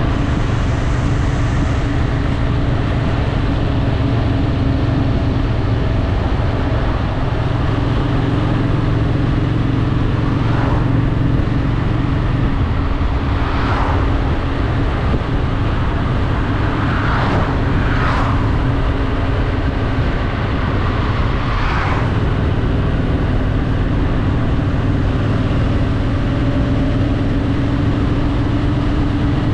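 Honda Shadow VT750's V-twin engine running steadily under way, with a constant rush of wind and road noise. The engine note changes about twelve seconds in, and a few short swells of rushing sound come and go in the middle of the stretch.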